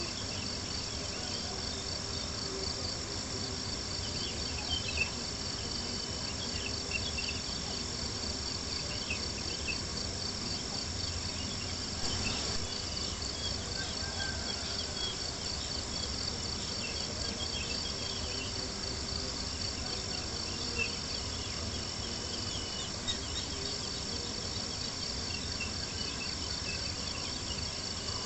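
Crickets chirring steadily in a fast pulsing trill, over the crackle of a campfire with a few sharper pops.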